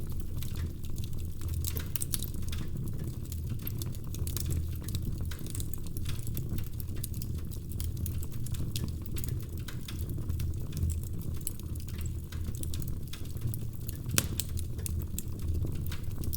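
Wood fire crackling: frequent small snaps and pops over a low, steady rumble of burning logs, with one sharper pop about fourteen seconds in.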